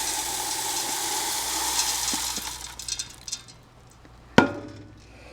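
Dry birdseed poured into a pot of dissolved gelatin, a steady rush of falling seed that fades out after about three seconds. A single sharp knock about four seconds in.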